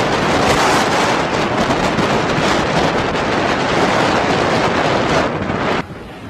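Strong wind rushing and buffeting the microphone, a dense roar with no distinct tones, which cuts off abruptly near the end.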